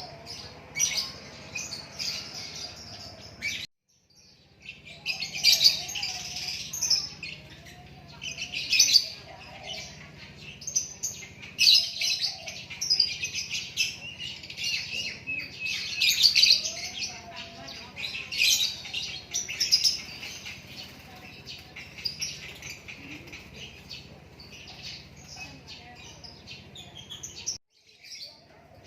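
A lakbet songbird singing in repeated bursts of high, chirping phrases, with two brief complete dropouts, one about four seconds in and one near the end.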